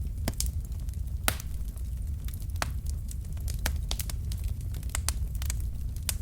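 Log fire in a fireplace crackling, with irregular sharp pops from the burning wood over a steady low rumble.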